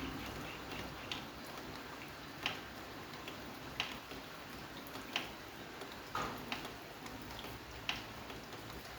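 Rain with single water drops falling at a slow, fairly even pace, about one every second and a bit, over a soft steady hiss.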